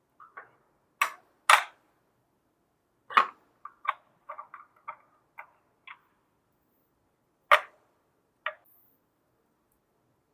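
Plastic toy pieces being handled and set down: a dozen or so irregular clicks and knocks, a few of them sharp and loud, with silence between.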